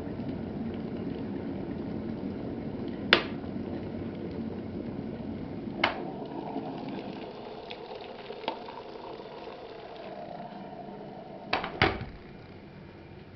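Aceline SS1800 electric kettle boiling, its steady bubbling rumble dying away over the second half. There is a sharp click about three seconds in and a few more clicks later, two of them close together near the end.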